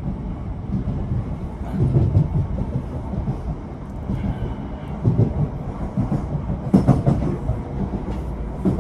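Passenger train running, heard from inside the carriage: a steady low rumble with occasional clattering knocks from the wheels on the track.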